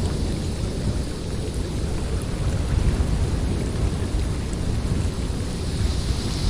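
Blizzard wind howling through a forest: a steady rushing noise with a deep rumble underneath. The higher hiss eases off in the middle and comes back near the end.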